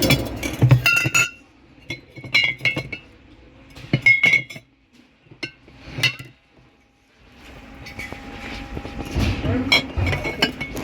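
Glass bottles clinking and knocking against each other as they are handled, in several short clusters of ringing taps with quiet gaps between.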